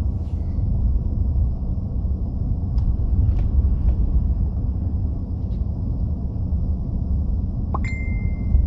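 Wind buffeting the microphone in a snowstorm: a loud, steady low rumble, with a faint high tone near the end.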